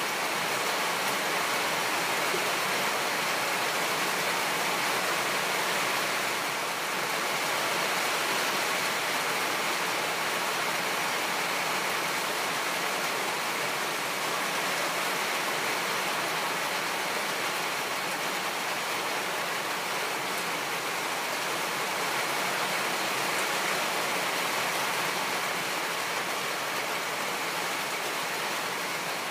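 Rain falling, a steady, even hiss.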